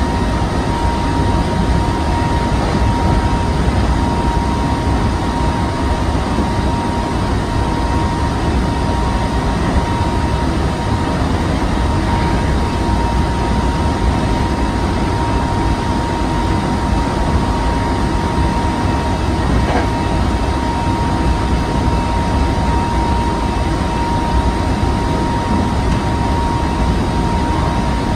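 Hankyu 7000 series electric train running at speed, heard from inside the car: a continuous low rumble of wheels on rail with a steady high whine held on one note.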